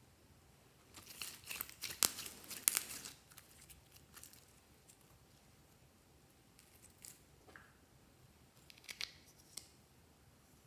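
Glossy slime being worked by hand: a burst of sticky crackling and clicking pops in the first few seconds, then a few scattered single clicks.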